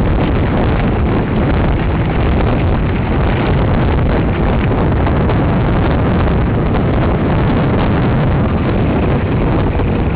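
Wind buffeting the microphone while riding a mountain bike at speed, with steady rumbling and small knocks from the rough trail.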